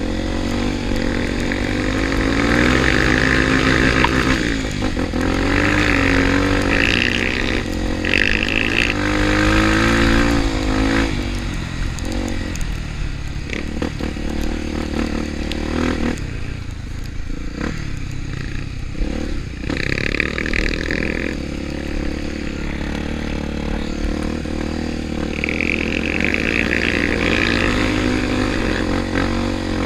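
Trail motorcycle engine running, its pitch rising and falling as it is revved, easing off in a dip in the middle and picking up again later.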